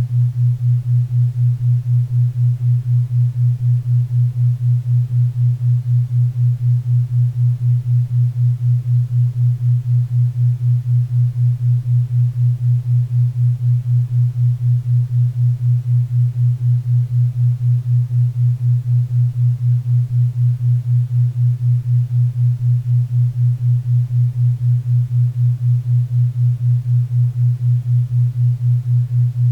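4 Hz theta-wave entrainment tone: a steady low hum pulsing evenly about four times a second, over a faint bed of pink and brown noise.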